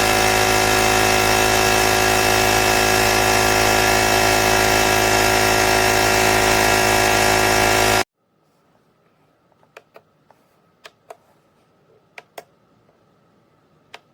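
ANFLAG jump starter's built-in air compressor running steadily, then cutting off suddenly about eight seconds in. Several light clicks follow in the quiet.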